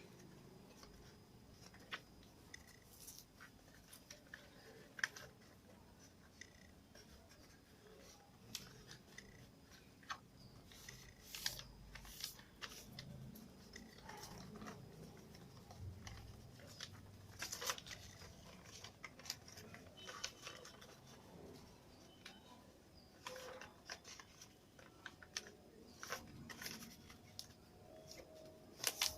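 A sheet of paper being folded and creased by hand: irregular crinkling and rustling with short sharp crackles as the folds are pressed down.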